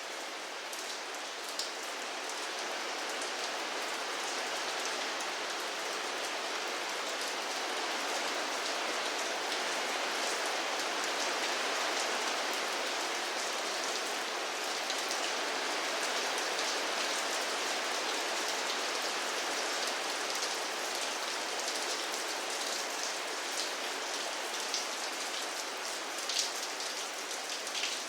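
Steady rain falling, an even hiss with scattered sharp drop ticks that come more often near the end.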